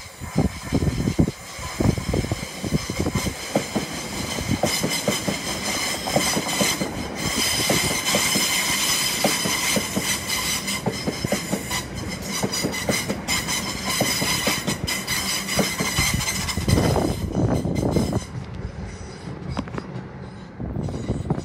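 Electric multiple-unit passenger train passing close by, its wheels clicking rapidly over rail joints and junction pointwork with a steady high whine above. About 18 seconds in the sound changes as the passing train gives way to another approaching train.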